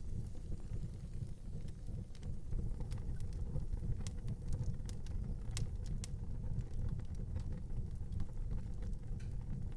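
Wood fire burning in an outdoor fireplace: a steady low rumble of flames with scattered sharp crackles and pops, the loudest about halfway through.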